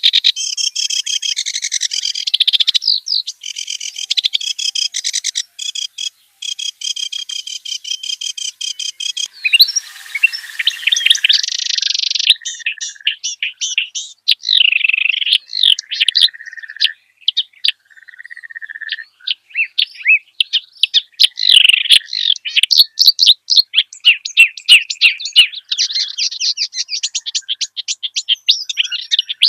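A kerak basi, a reed warbler, singing a varied song. It opens with fast runs of repeated high notes, has a harsh rasping phrase about ten seconds in, then runs on with quick chirps and trills.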